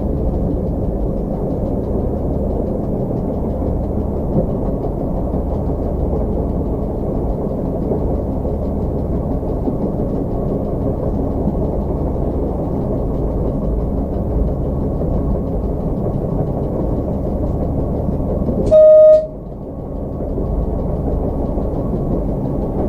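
Slovenian Railways series 813 diesel railcar running along the line, a steady rumble of engine and wheels on rails heard from the driver's cab. About 19 seconds in, the train's horn gives one short, single-pitch blast, the loudest sound here.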